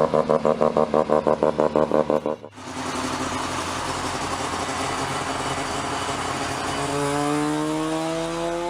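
Mazda RX-3 rotary engine. For the first couple of seconds it runs with a choppy, pulsing note, about six pulses a second. It then cuts abruptly to a steadier running sound that rises in pitch as the engine revs up near the end.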